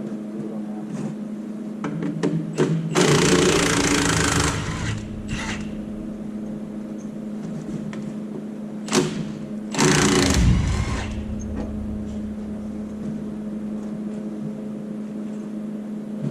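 Impact gun hammering on bolts in two bursts, each about a second and a half long and several seconds apart, over a steady machine hum.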